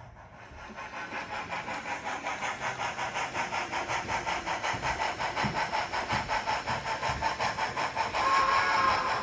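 Model train running and coming closer, a rhythmic pulse of about five beats a second growing steadily louder, with a steady tone joining near the end.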